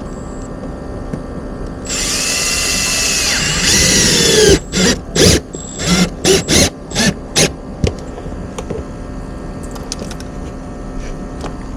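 Power drill driving a long screw: a steady motor whine that drops in pitch as the screw bites, then about seven short trigger bursts as the screw is snugged down.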